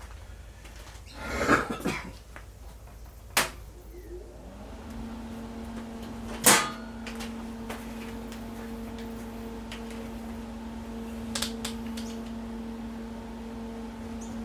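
Knocks and clicks of tools being handled, then a small electric motor starts with a short rise in pitch about four seconds in and settles into a steady hum, with a few more sharp clicks over it.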